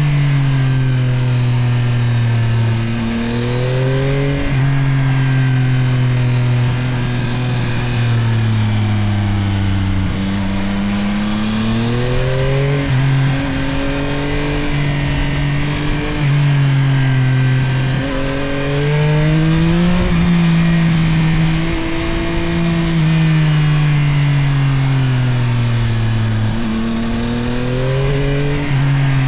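Yamaha CP3 890 cc inline three-cylinder engine of a Tracer 9 GT+ motorcycle under way, its revs rising and falling as the rider speeds up and slows down. The engine note jumps up sharply a few times at downshifts.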